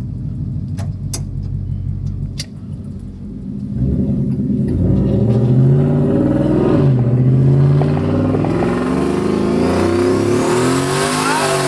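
Turbocharged burnout truck idling, then pulling away hard from about four seconds in. The engine climbs in pitch, dips briefly as it shifts near the middle, and climbs again with a rising turbo whistle as the boost comes in near the end.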